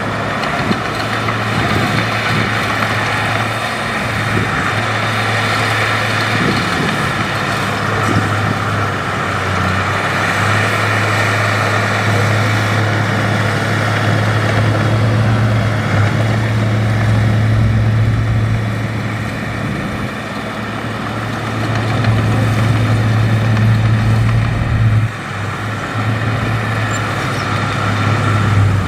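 Heavy diesel engine of an earthmoving machine running steadily with a deep, constant hum, dipping briefly near the end.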